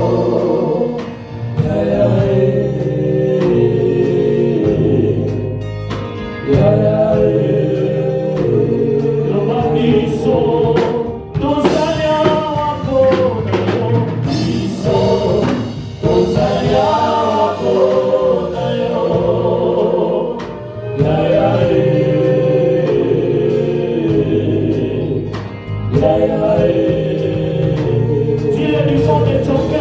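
Gospel praise music: voices singing a worship song in Lingala over a band with bass and a steady drum beat.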